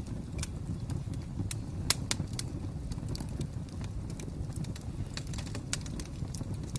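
Wood fire crackling: irregular sharp pops and snaps over a steady low rumble, the loudest pop about two seconds in.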